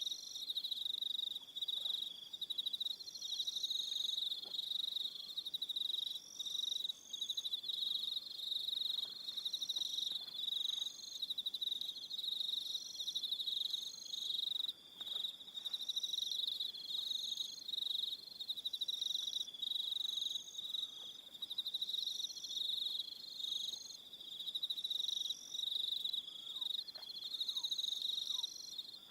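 Evening insect chorus of crickets: a steady, high-pitched trill, with a second, higher chirp repeating about every second and a half.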